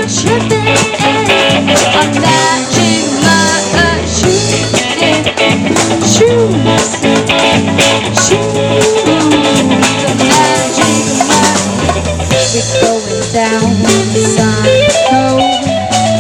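Live band playing an instrumental passage: guitar and drum kit over a bass line, with a steady beat.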